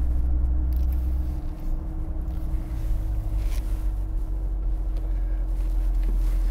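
The 6.2-litre LT1 V8 of a 2014 Chevrolet Corvette Stingray running at low revs as the car backs out in reverse, heard from inside the cabin as a steady low rumble. The deepest part of the rumble eases about a second and a half in and builds again later.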